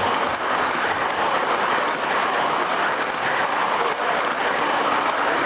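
Steady applause from a crowd, many hands clapping at once.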